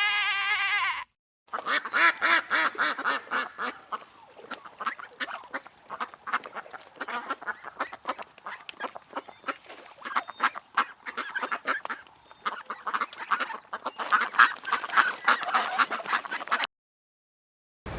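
A bleat ends about a second in. After a short break, a flock of ducks quacks: dense rapid quacks overlapping for about fifteen seconds, which cut off suddenly near the end.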